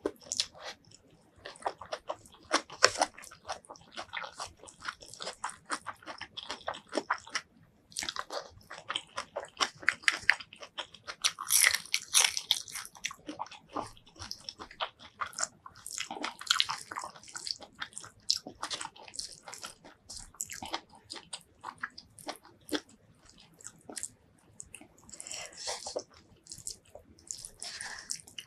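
Close-miked eating: chewing and crunching mouthfuls of rice with fried roselle leaves and bamboo shoots, with wet mouth and lip clicks, in irregular bursts and a short pause about seven seconds in.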